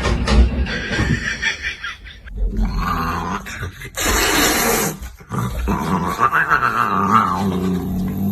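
A pet animal's vocal sounds, with a loud noisy burst lasting about a second midway and a drawn-out pitched call a couple of seconds later.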